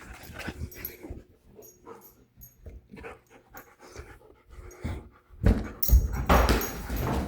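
A puppy panting and snuffling close to the microphone, faint at first and much louder and rougher for the last two seconds or so.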